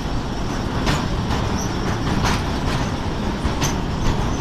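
Passenger train running over a steel girder bridge, heard from an open carriage window: a steady low rumble of the wheels on the rails, with a sharp click about every second and a half.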